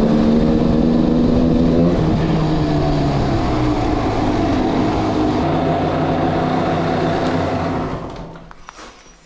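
Yamaha DTR 125 single-cylinder two-stroke engine running at low speed in an underground car park. Its pitch steps down a little about two seconds in, then it dies away near the end as the engine is shut off.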